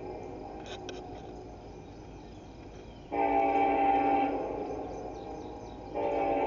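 Union Pacific freight locomotive's multi-chime air horn sounding for the crossing as the train approaches. One blast starts sharply about three seconds in and fades after about a second, and a second blast begins near the end. A low rumble runs underneath.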